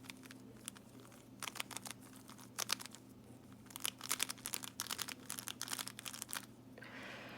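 MoYu RS3M 2020 3x3 speedcube being turned in quick runs of layer moves: rapid plastic clicking and clacking, with no spring noise from the cube.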